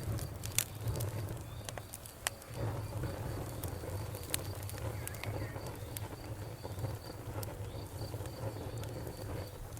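Wood fire burning in a fireplace: scattered sharp crackles and pops over a low steady rumble of the flames. A faint high chirp repeats about three times a second.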